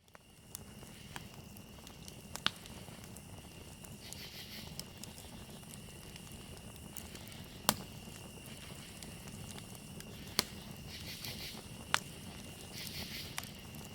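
Campfire burning with a steady low rush and light crackling, broken by a handful of sharp pops, while crickets chirp in a steady high-pitched drone. The sound comes in from silence at the start.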